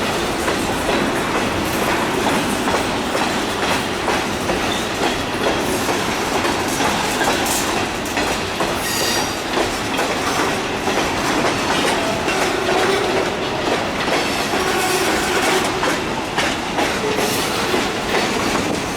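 Freight cars of a train rolling past, their wheels clacking over the rail joints in a steady run, with a brief high wheel squeal about nine seconds in.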